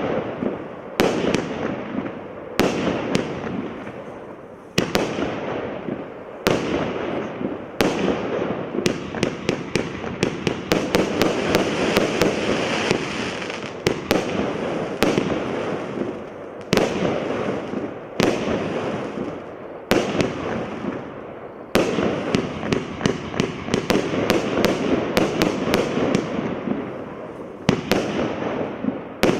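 A 36-shot firework barrage cake going off: sharp launch bangs and bursts, some singly a second or two apart and some in quick runs, with a crackling hiss from the glitter and brocade stars between the shots.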